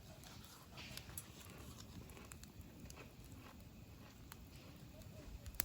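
Wood campfire crackling faintly, with scattered small pops and one sharper snap near the end.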